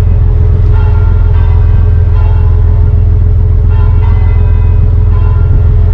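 Steady running of the Dutch barge's engine while cruising: a loud, low, even rumble with a steady hum. Short ringing tones come and go above it.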